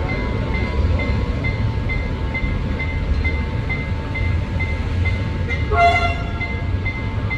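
Railway work train running through a level crossing, with a steady low engine rumble. The level-crossing warning signal beeps about four times a second throughout. The train sounds a short horn blast about six seconds in.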